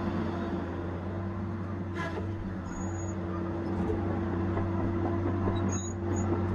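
Tigercat 870C feller buncher's diesel engine running at a steady speed, with a constant hum. Two faint ticks come about two seconds in and again near the end.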